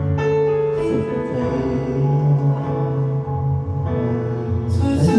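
Karaoke backing track playing the instrumental outro of a pop ballad: held keyboard chords over slowly changing bass notes, with a bright cymbal-like hit near the end.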